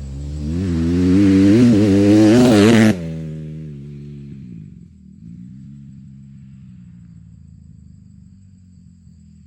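Honda CRF150R single-cylinder four-stroke dirt bike engine revving hard, its pitch swinging up and down, loudest just before it cuts off abruptly about three seconds in. A much quieter, steady low hum follows.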